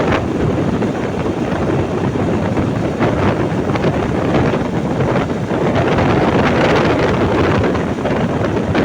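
Wind buffeting the microphone of a moving motorbike, a loud steady rush with the ride's road and engine noise underneath.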